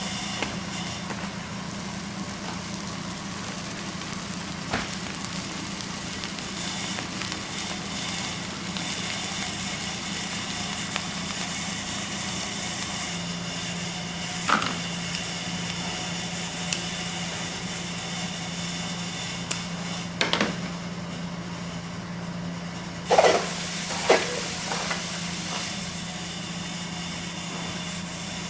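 A steady machine hum under a constant hiss, broken by a few sharp knocks and clatters, the loudest two close together near the end.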